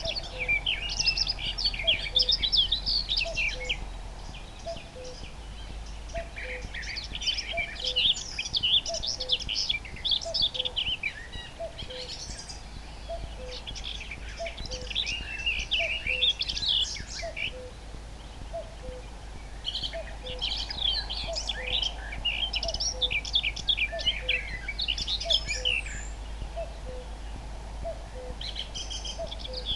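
Common nightingale singing rich, fast-varying phrases in bouts of a few seconds with short pauses. Under it a common cuckoo calls its fainter two-note 'cuck-oo', high then low, over and over about every second and a half.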